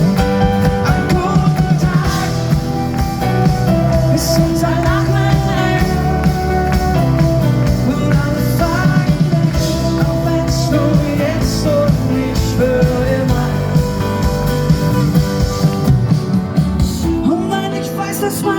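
Live acoustic pop song with guitar, drums and singing, played loud; the bass drops out near the end as the song winds down.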